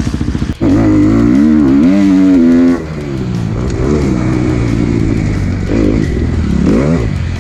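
Dirt bike engine revving hard, its pitch rising and falling as the throttle is worked. It is loudest for the first few seconds, then drops back to a lower, wavering run. A brief dropout comes about half a second in.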